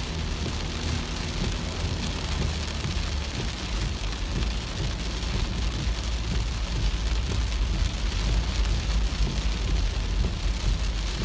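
Heavy rain falling on a moving car, heard from inside the cabin as a steady hiss together with the wet road, over a steady low rumble from the car on the road.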